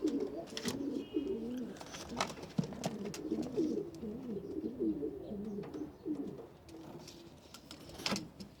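Several domestic pigeons cooing at once in overlapping, wavering low calls, thinning out near the end, with occasional sharp clicks and taps, the loudest near the end.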